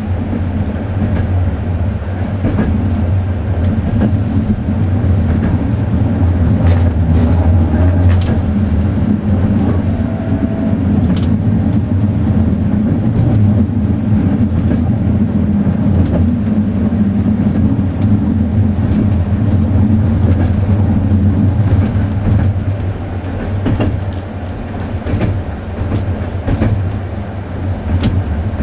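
Passenger train running on the line, heard from on board: a steady rumble from the wheels and running gear with scattered irregular clicks and knocks.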